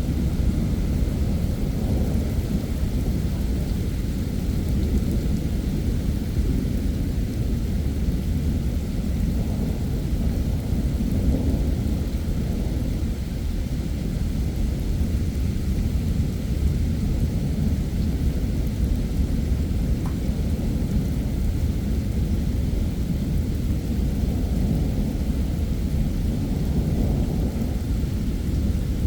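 Heavy thunderstorm rain falling steadily, with a deep, continuous low rumble of thunder underneath and no sharp claps.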